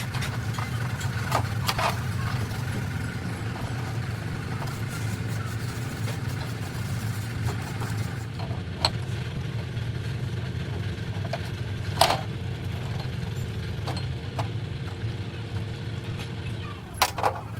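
A motor running steadily with a low, even drone, with a few sharp knocks scattered through it.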